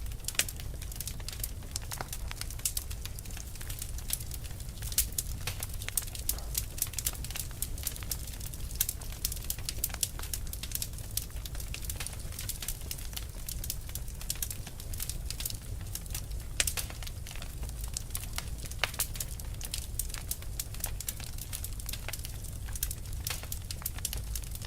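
Fire crackling: irregular sharp pops and snaps, some louder than others, over a steady low rumble.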